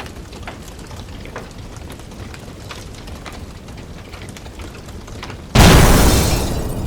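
Food sizzling on a hot flat-top griddle with light crackling, then a sudden loud surge of sizzle about five and a half seconds in that slowly dies down.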